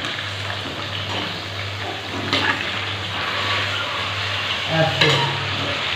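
Chicken pieces frying in hot oil in a karahi, a steady sizzle, with a couple of knocks from stirring about two and a half and five seconds in.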